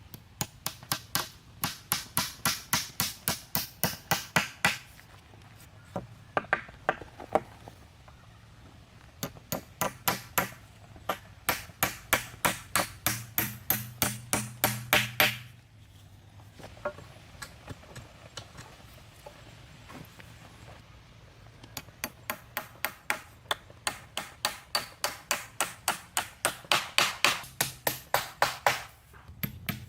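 A hammer striking quickly and evenly, about four blows a second, with a slight ringing to each blow. The blows come in several runs with short pauses between them, as when driving nails into wood.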